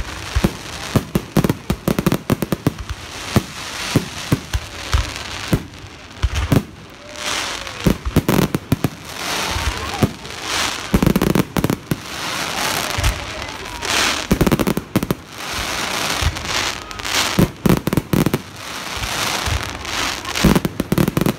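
Fireworks display: a rapid string of sharp bangs and crackles from aerial shells, then longer rushing, crackling bursts broken by single loud cracks.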